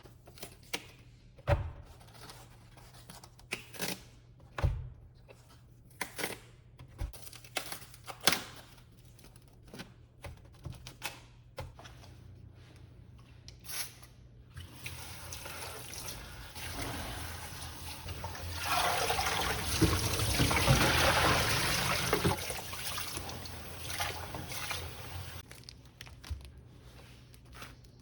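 Kitchen sounds: scattered small knocks and clinks, then liquid pouring or running for several seconds, swelling to its loudest about two-thirds of the way in and fading away.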